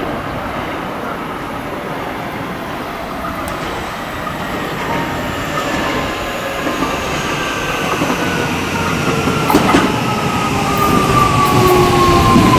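Train coming into a station platform: rail noise that grows steadily louder, with high whining tones that fall slowly in pitch through the later seconds.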